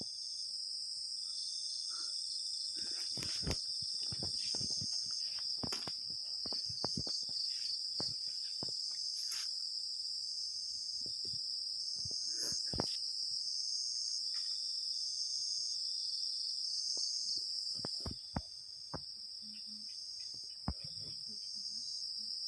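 Night insects chirring: a steady high-pitched drone with a second call pulsing on and off about once a second. Scattered short clicks and knocks sound over it.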